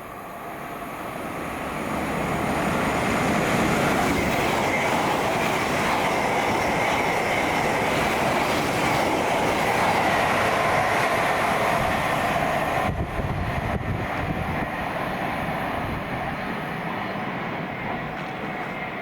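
Fast passenger train passing through the station at speed. It builds over the first couple of seconds, stays loud with a steady whine over the rush of wheels on rail, changes sharply about two-thirds of the way through, then fades as it goes away.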